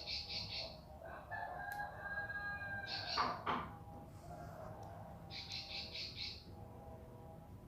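Bar-winged prinia (ciblek pari) singing: short bursts of rapid, high, chirping notes, three times, over a lower, longer drawn-out bird call.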